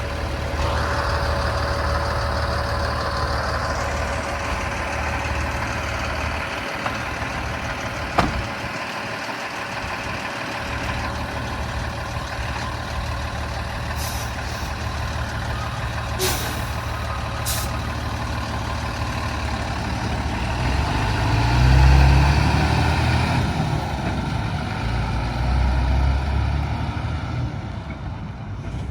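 A 2005 5,000-gallon jet fuel truck's engine running steadily. There is a sharp click about 8 seconds in and three brief high hisses around the middle. The engine swells louder for a couple of seconds near the 22-second mark.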